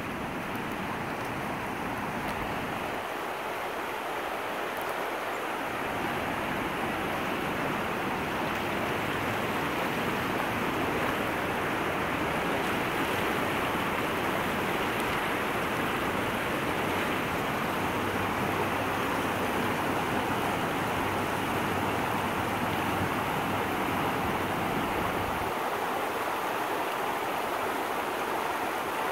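Running water rushing steadily, as from a stream, with no swells or breaks.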